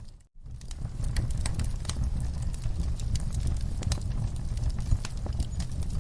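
Wood fire burning in a fireplace: a steady low rumble of the flames with frequent sharp crackles and pops. The sound cuts out completely for a split second near the start, then resumes.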